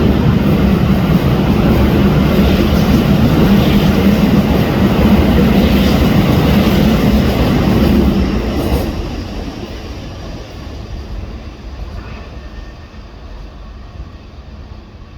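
Toei Shinjuku Line electric train running through the station, a loud steady rumble for about eight seconds that then fades away.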